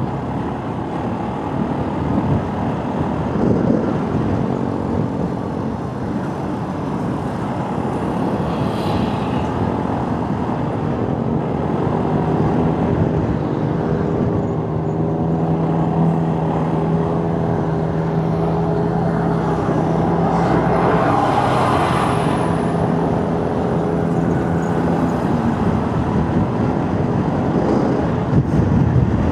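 Motorcycle riding along a road: the engine running under a steady rush of wind and road noise, with an engine tone that holds steady through much of the middle stretch.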